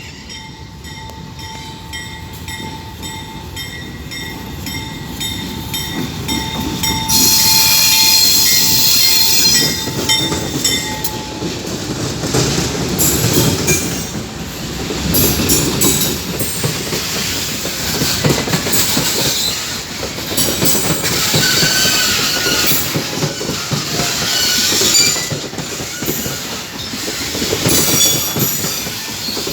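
Heavy loaded coal train of gondola wagons passing on the rails, its steel wheels squealing and rumbling. A steady high squeal comes first and fades out after about ten seconds, while the running noise grows louder about seven seconds in and stays loud.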